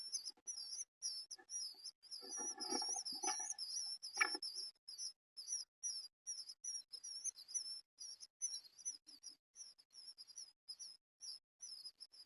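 Eastern bluebird nestlings giving rapid, high, thin begging chirps without a break. About two to four seconds in there is a louder burst of scuffling and rustling in the nest box, and the chirps grow sparser after that.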